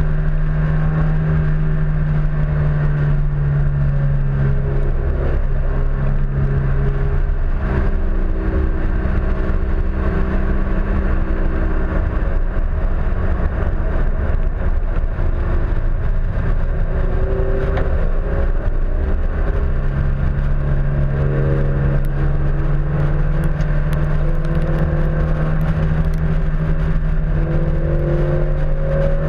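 Honda S2000's four-cylinder engine running at speed on a track lap, heard from outside on the fender with heavy wind rush over the microphone. The steady engine note drops away from about a quarter of the way in until about two-thirds through, then returns, with rising pitch as it accelerates near the end.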